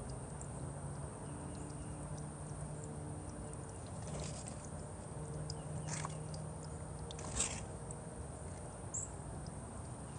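Small birds: a few short sharp taps and flutters, and one brief high chirp near the end, over a low steady hum.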